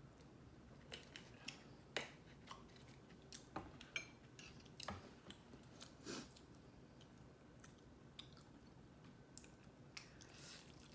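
Faint close-up eating sounds: a person chewing, with scattered wet mouth clicks and smacks, a few louder ones about two, four and six seconds in.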